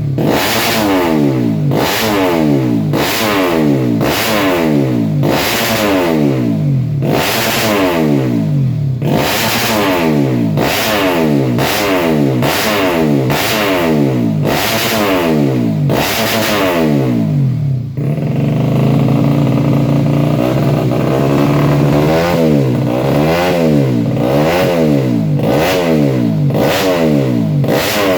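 Motorcycle engine through an aftermarket racing exhaust, revved in repeated throttle blips about once a second, each rising in pitch and dropping back. About two thirds of the way through it settles to a steady idle for a few seconds, then the blips start again.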